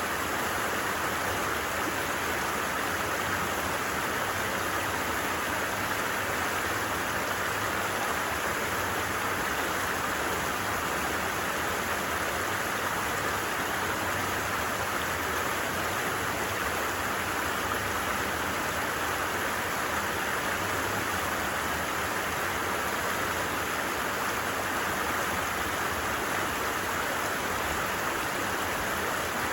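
Creek water babbling in a steady, unbroken rush.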